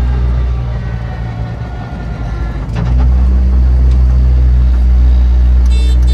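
Car engine running with a steady low drone, easing off for a couple of seconds and then coming back louder about three seconds in. A brief high squeal sounds near the end.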